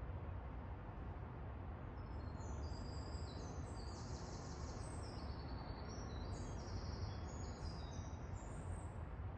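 Birds chirping in a quick, overlapping series of high notes from about two seconds in, over a steady low rumble of city ambience.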